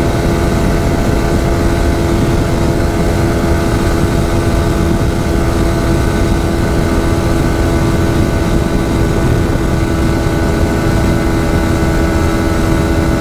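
Yamaha R15 V4's 155 cc single-cylinder engine running steadily at high revs at about 140 km/h, its pitch holding flat, with a heavy rush of wind on the microphone.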